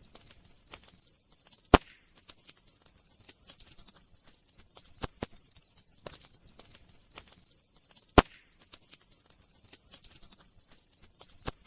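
Wood fire crackling: scattered sharp pops and faint ticks over a soft hiss, with two loud snaps, one about two seconds in and one about eight seconds in.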